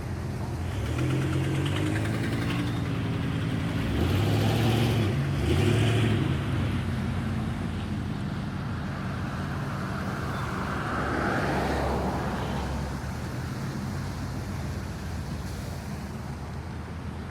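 Vehicles driving past on a street: one engine pulls away and climbs in pitch through the first six seconds, then another vehicle passes with a swell of engine and tyre noise around eleven to twelve seconds before fading.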